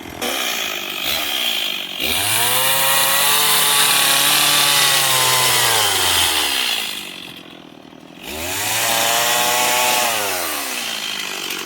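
Chainsaw cutting into a wooden log for carving: the saw revs up to full throttle twice, each time holding for a few seconds before the revs fall back, with a quieter lull between the two cuts.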